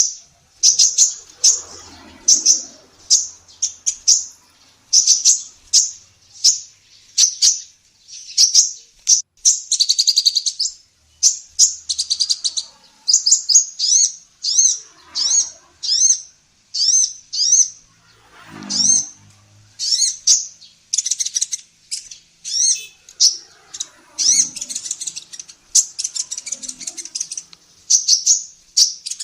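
Female kolibri ninja sunbird singing: quick series of thin, high-pitched chirps and short trills, phrase after phrase with only brief gaps.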